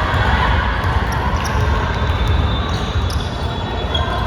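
Basketball game court sound: a ball bouncing on the hardwood floor amid the steady echoing din of a gym hall.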